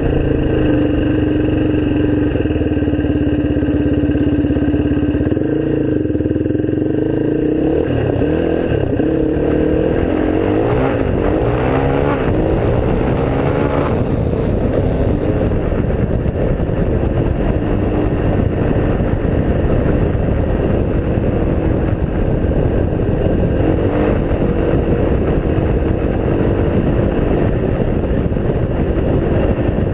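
Single-cylinder off-road engine running under way, picked up by a vehicle-mounted camera. Its note holds steady at first, shifts up and down with the throttle through the middle, then settles again.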